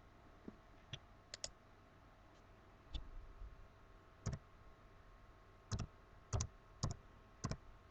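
Sparse clicks of a computer mouse and keyboard, many coming in quick pairs, growing busier in the second half.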